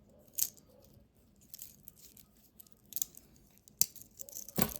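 Scattered light clicks and rustles from a small metal wristwatch being handled, with a few sharper taps about half a second in and near the end.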